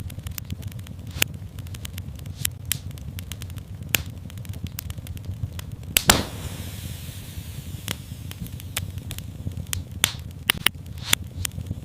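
Fireplace fire crackling: irregular sharp pops and snaps over a low, steady rumble of the flames, with the loudest pop about six seconds in and a quick run of pops near the end.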